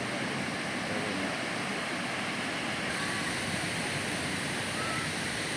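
Surf breaking and washing up the beach: a steady, even roar.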